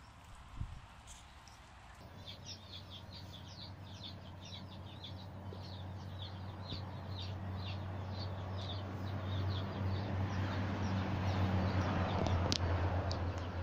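Small birds chirping in quick runs of short, high notes over a steady low hum. The hum and background noise grow louder toward the end, and there is a single sharp click near the end.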